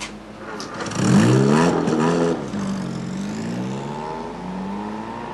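A car engine accelerating. Its pitch climbs, drops suddenly about two seconds in as if shifting gear, then rises again more gently.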